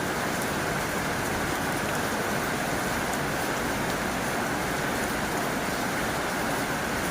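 Heavy rain drumming steadily on a tin roof, a dense even hiss with faint scattered drop ticks.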